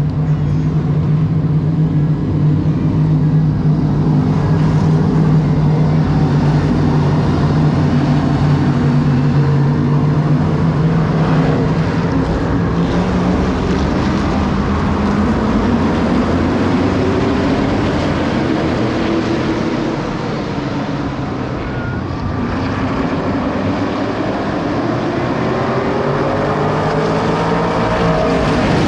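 Race cars running laps in a heat race on an oval track, their engines droning together, with the pitch swelling and falling as cars pass and accelerate off the corner in the second half.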